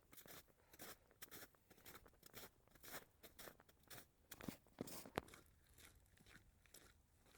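Faint footsteps crunching in snow, about two steps a second, with a sharper snap about five seconds in.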